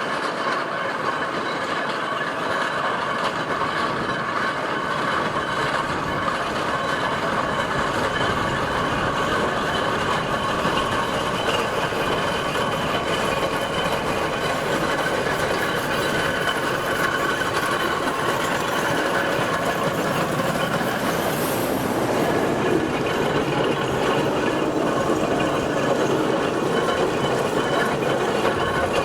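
Steam traction engine travelling along the road: a continuous clanking rattle of gearing and steel wheels, with steady high-pitched ringing tones over it.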